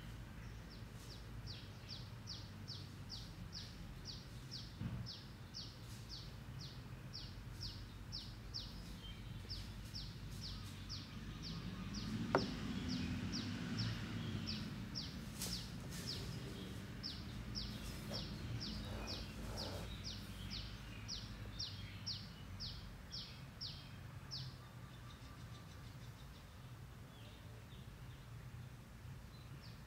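Faint ambience: a small bird chirping in long, rapid runs of short high notes, about three a second, over a low steady hum. Around the middle a low rumble swells and fades, with a sharp click as it begins.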